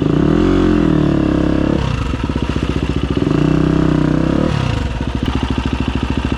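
Enduro dirt bike engine running just after being started, with the throttle blipped: the revs rise and fall about half a second in, are held higher through the middle, then settle back toward idle near the end.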